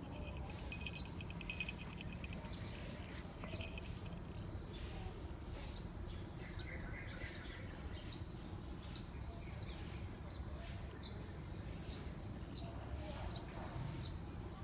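Outdoor ambience of small birds chirping again and again over a steady low rumble, with a fast trill in the first couple of seconds.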